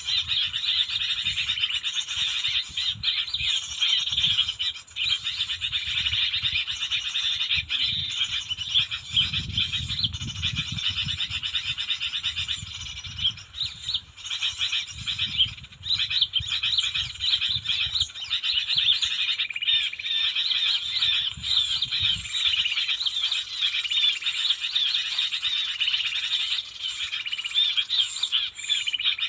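Small birds twittering continuously, a dense chorus of quick high chirps, with a low rumble coming and going under it until about two-thirds of the way through.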